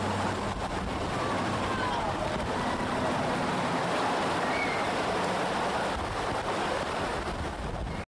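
Steady rush of storm wind and surf, with a faint low hum under it; it cuts off suddenly at the end.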